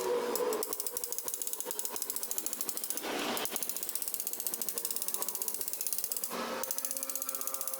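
Rapid, steady mechanical clicking, like a ratchet, running throughout, with two brief louder rushes about three seconds in and again near six and a half seconds.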